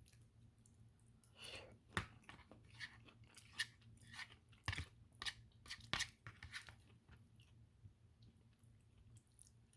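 Close-up chewing of food, with soft wet clicks and crunches, busiest in the first two-thirds and sparser near the end. A steady low hum lies underneath.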